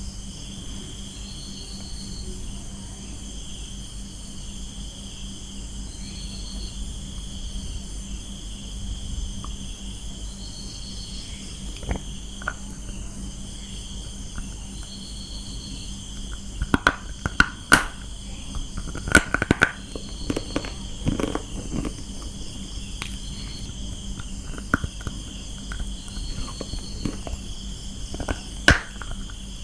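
Crunching bites into a hard lump of brown clay: sharp cracks and crunches, mostly in a cluster about halfway through and once more near the end. Underneath runs a steady high chirring chorus of insects, like crickets.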